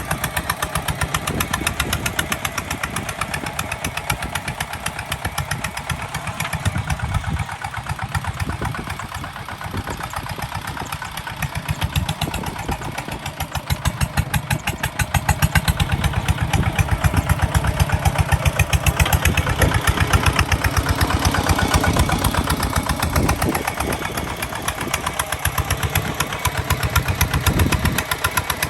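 Kubota ZT155 DI single-cylinder diesel engine running with a steady rapid putter, growing louder about halfway through.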